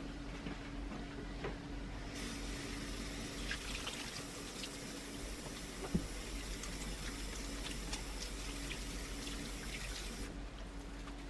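Kitchen tap running into a sink while hands are washed after cracking an egg. The water turns on about two seconds in and off near the end, with a small knock midway.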